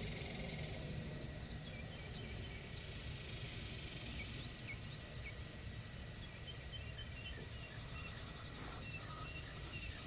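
Outdoor rural ambience: a steady low rumble with scattered short high chirps and a faint, evenly pulsing high-pitched tone.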